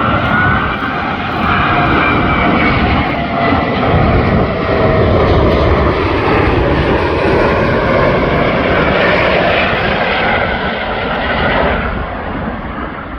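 Airbus A380-841's four Rolls-Royce Trent 900 jet engines on landing approach: a loud, steady jet roar with a faint whine through it, easing off near the end as the aircraft passes.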